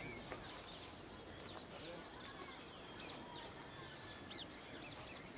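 Quiet outdoor background: many short, scattered bird chirps over a steady high-pitched hiss.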